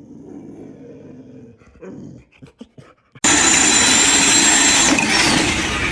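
A dog growling low and quietly for about three seconds. Then a loud, steady rushing noise cuts in abruptly and continues.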